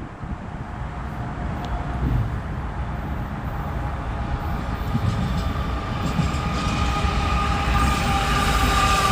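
Kansas City Southern train rolling past, a low rumble growing steadily louder, with a steady high-pitched whine building in from about halfway through.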